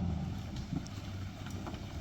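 GMC Z71 pickup's engine running under load as the truck drives off-road, with a few short knocks and rattles from the body.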